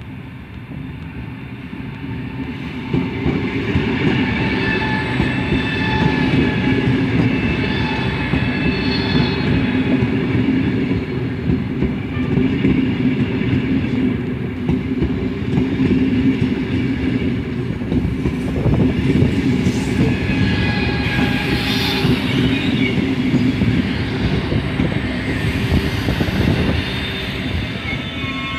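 PKP Intercity ED250 Pendolino electric train running along the platform and slowing to a stop: wheels rumbling and clattering over the rails, with steady high-pitched squealing tones as it slows.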